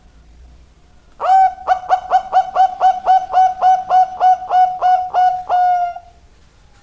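Zebra dove (perkutut) singing its cooing song. About a second in, a fast run of short coos starts, each sliding up in pitch, about four a second. The run ends on one longer held note.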